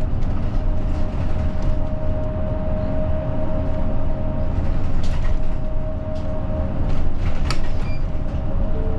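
Route bus running, heard from inside the cabin: a steady low engine and road rumble with a thin whine that fades out about two-thirds of the way through, and a few sharp rattles or clicks.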